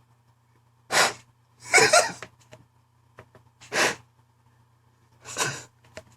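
A man sobbing in loud, sharp gasping bursts, four outbursts with the second one longer and broken in two.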